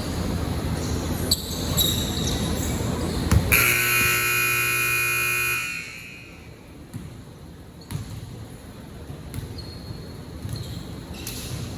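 Basketball scoreboard buzzer sounding one steady blast of about two seconds, partway through. Before it the gym is busy with ball bounces and court noise, and after it there are only a few scattered bounces.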